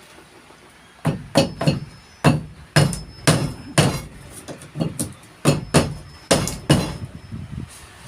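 Hammer driving nails into wood: a dozen or so sharp blows at an uneven pace, some in quick pairs, starting about a second in, a few with a brief metallic ring.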